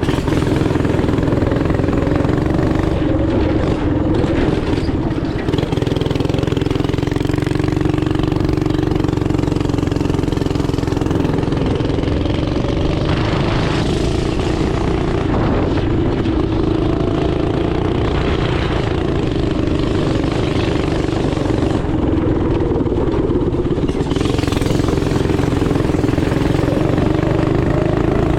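Small single-cylinder engine running hard at high, fairly steady revs, its pitch wavering only slightly throughout.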